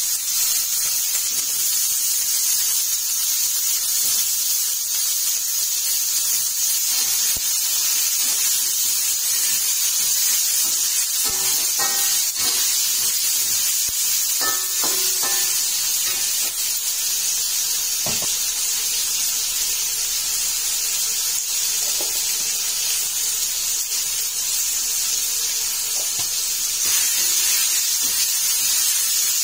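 Potatoes, chillies and onions sizzling in hot oil in a steel wok: a steady hiss, with a metal spatula knocking and scraping against the wok a few times.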